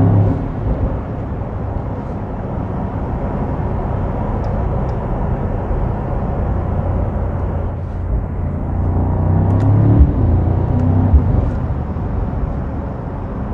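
Mercedes-AMG SL63's twin-turbo V8 running while the car is driven, with tyre and road noise under it; the engine note swells about eight seconds in, with a couple of short knocks shortly after.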